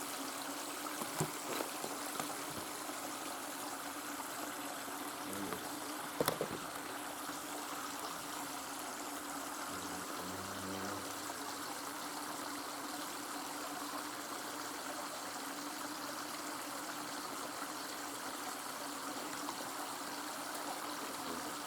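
Steady rush of a small stream flowing over stones, with a couple of faint clicks, one about six seconds in.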